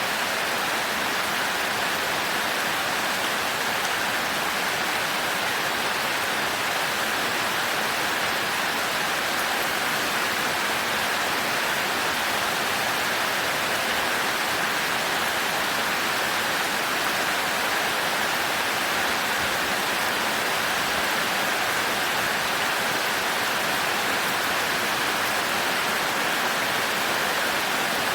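Steady heavy rain, an even hiss that does not change, with no thunder.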